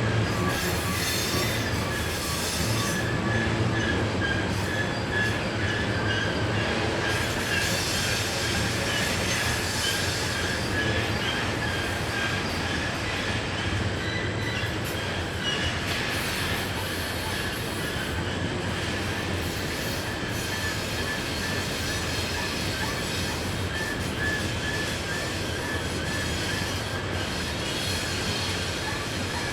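Long freight train rolling steadily around a tight curve, its steel wheel flanges squealing against the rail in a wavering high tone over the rumble of the cars.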